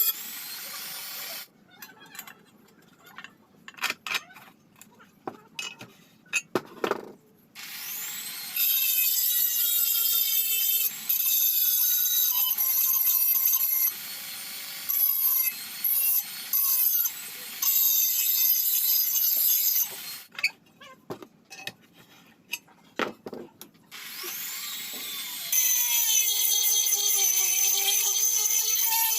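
Electric power tool working metal in three long spells with a high whine that shifts in pitch. Between the spells there are short pauses with scattered clicks and taps.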